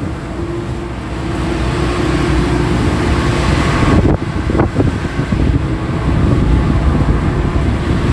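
Dredge boat's engine machinery running steadily, with wind on the microphone and a few brief knocks about halfway through.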